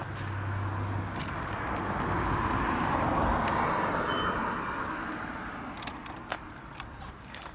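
A passing road vehicle: even road noise that swells to a peak about three seconds in and then fades away, with a few light clicks near the end.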